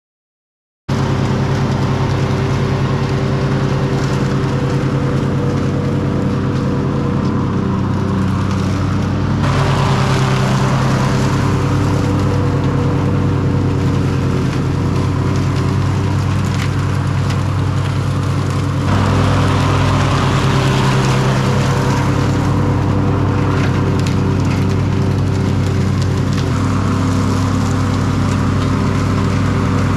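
Simplicity Regent lawn tractor running at mowing speed with its leaf collection bag fitted, sucking up leaves and grass. It comes in abruptly about a second in. Scattered ticks and rattles come from heavy debris such as chestnut seed pods going through the chute. The sound shifts abruptly twice.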